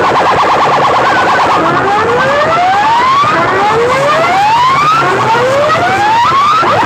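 Electronic siren effect played loud through a DJ sound system. A fast pulsing tone gives way to three slow rising sweeps, each lasting about a second and a half, and quick rising chirps start near the end.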